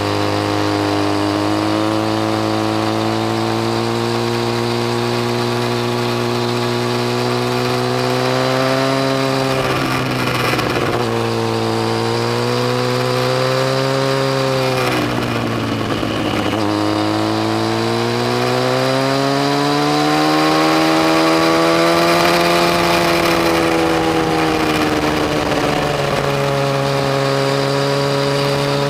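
Yamaha FZ1's inline-four engine running under load, its pitch rising and falling with the throttle; the revs dip and climb back twice, about ten and fifteen seconds in, then rise steadily, over a constant rush of wind.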